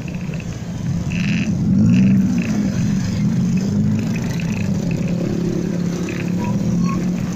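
Motorcycle engine running while riding, its pitch rising to a peak about two seconds in and then settling to a steady note, over road and wind noise.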